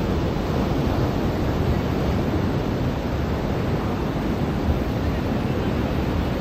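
Ocean surf washing onto a beach: a steady, unbroken rushing noise.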